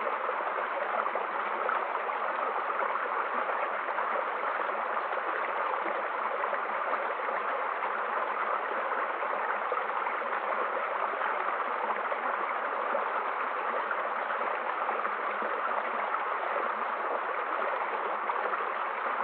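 Mountain stream in spate, its water rushing with a steady, unbroken sound.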